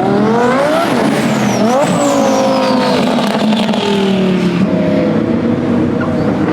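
Car engine accelerating hard, its pitch climbing, dipping sharply and climbing again about a second and a half in, then falling and settling into a steady run. A high thin whine falls in pitch alongside it.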